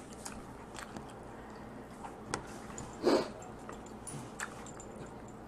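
Close-up eating sounds from a Dungeness crab meal: scattered small clicks and crunches of shell and chewing, with one louder, noisier sound a little past three seconds in.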